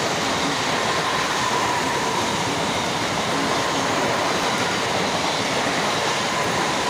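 Mumbai suburban local electric train running fast through a station platform: a loud, steady rush of wheels on rails and passing coaches, with a faint thin tone above it.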